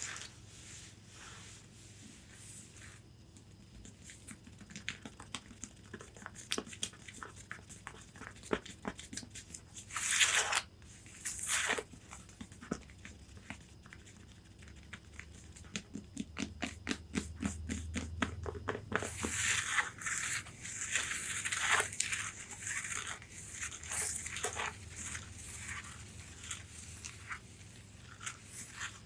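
Long fingernails tapping and scratching on the fabric of a corset bodice: scattered taps and scratchy swishes, with a run of quick, even taps in the middle.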